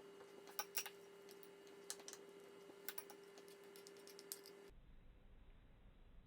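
Near silence: a faint steady hum with a few scattered light clicks. The hum stops abruptly near the five-second mark.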